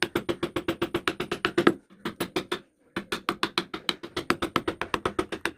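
Rapid, even clicking or tapping, about ten strokes a second, broken about two seconds in by a short silence before it starts again.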